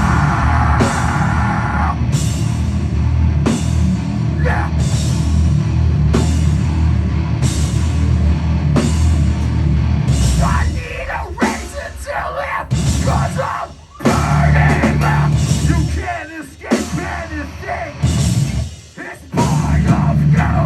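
Heavy metal band playing live at full volume, with a drum kit keeping a steady beat of cymbal hits. In the second half the music cuts out briefly several times and comes back in, in a stop-start pattern.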